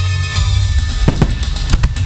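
Music with a heavy bass beat, broken by four sharp firework bursts in two close pairs in the second half.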